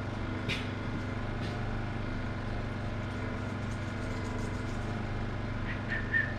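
A steady low mechanical hum of a running machine, with a couple of faint clicks early and a brief faint high chirp near the end.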